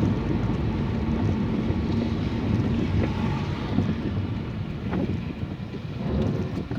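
Steady rumble and hiss of a car driving on a rain-soaked road, with a faint engine hum in the first part.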